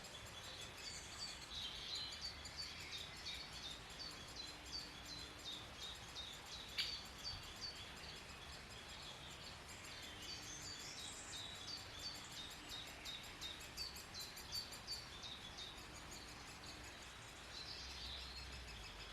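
Greater spotted woodpecker nestlings calling from the nest hole: a faint, steady run of short high chirps, several a second, the begging calls that give away where they are nesting.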